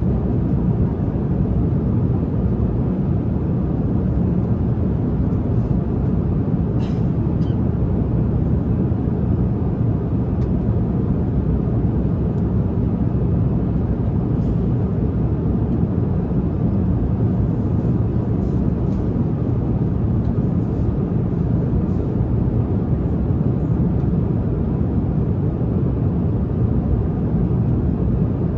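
Steady low rumble of a jet airliner cabin in cruise flight, with a few faint clicks.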